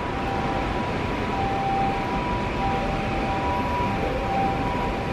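JR Yamanote Line E235-series electric train approaching a station platform: a steady rumble and hiss with faint steady whining tones that come and go.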